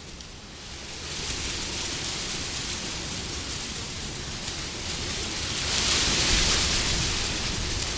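Wind blowing in gusts. It eases just after the start, builds again, and swells into a stronger hissing gust about six seconds in.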